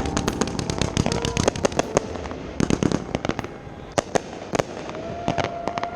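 Consumer 1.4G fireworks going off in a rapid run of sharp reports and crackles, thinning out toward the end.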